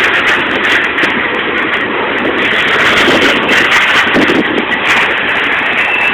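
Mixed freight train rolling past, a steady rumble and clatter of steel wheels on the rails.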